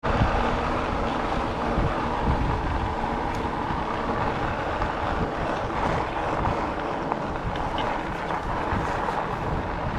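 Wind buffeting the microphone of a chest-mounted GoPro during an e-bike ride: a steady low rumble and rushing hiss that cuts in suddenly at the start.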